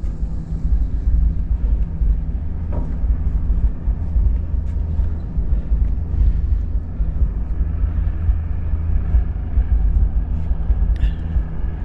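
Steady low rumble on the microphone, with a few faint clicks.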